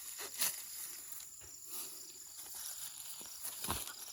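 Steady, high-pitched insect chorus, with a few scattered soft rustles and clicks.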